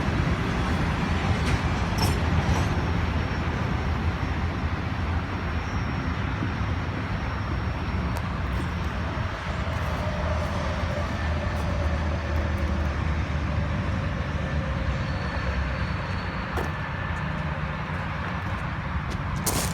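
A train running on the tracks, a steady low rumble with a brief sharp click near the end.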